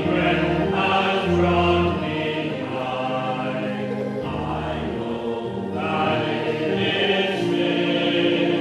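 Congregation singing a hymn together with organ accompaniment, long held chords changing every second or so.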